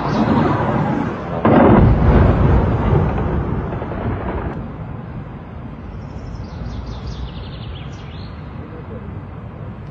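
An explosion: a sudden boom about a second and a half in that rolls away over the following few seconds.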